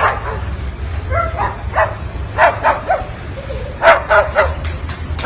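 Short high barks and yips, about eight in all, coming singly and then in quick runs of three, over a steady low hum.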